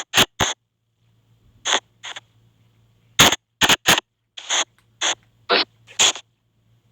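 Spirit box app on a phone playing choppy bursts of hissy white noise: about a dozen short blips with silence between them, over a faint low hum.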